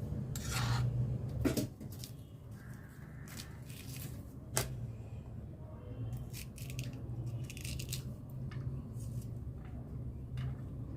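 Okra pods being slit with a knife and their seeds scraped out: light cutting and scraping with scattered small clicks, one sharp click about four and a half seconds in, over a steady low hum.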